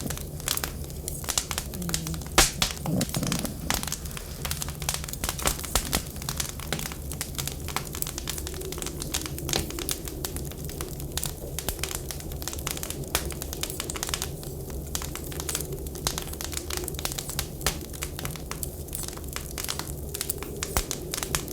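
Wood fire crackling with dense, irregular pops and snaps, one sharper crack about two seconds in, over a steady low rumble.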